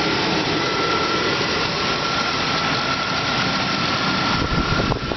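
Chevrolet 5.7-litre Vortec V8 idling steadily with the hood open, with a thin steady whine over the engine noise. A heavier, uneven rumble comes in near the end.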